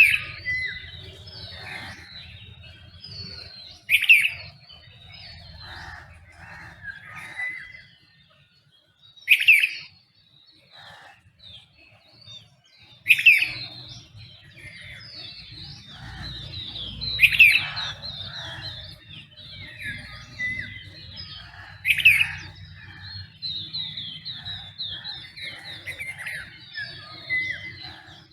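Dawn chorus of several songbirds chirping and calling at once, with one louder, sharper call repeating about every four to five seconds over many softer chirps.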